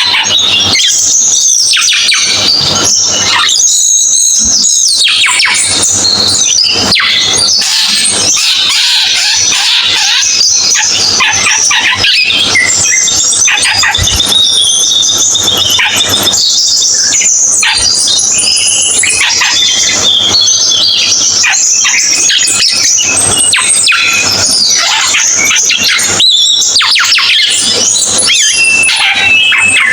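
Cucak keling songbird singing a loud, unbroken run of rapid chattering, squeaky and whistled notes, mostly high-pitched, with quick rising and falling phrases and only brief pauses.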